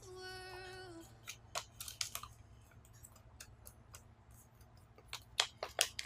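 Origami paper crackling and clicking as it is folded and creased by hand, in scattered short bursts. A short steady pitched tone, like a hum, is heard in the first second.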